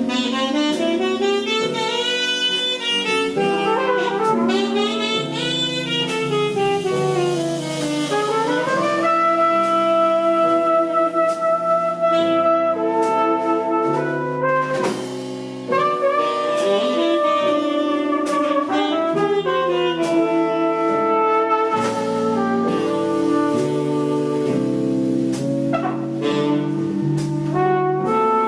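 Instrumental jazz ballad. A lead horn plays fast rising and falling runs in the first few seconds, then long held melody notes, over sustained chords that change every second or two.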